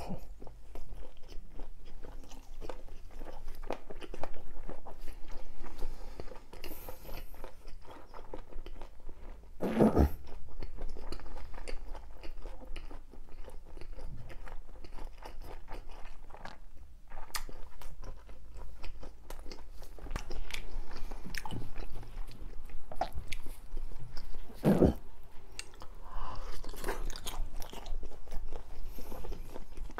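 A person chewing and crunching food close to the microphone, with wet mouth sounds, in a mukbang-style eating recording. Two louder sharp crunches stand out, about ten seconds in and again near twenty-five seconds.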